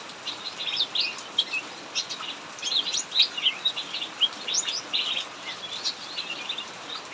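Cucak mini songbirds singing nonstop in quick, sharp chirps and short sweeping notes, over a steady hiss of heavy rain.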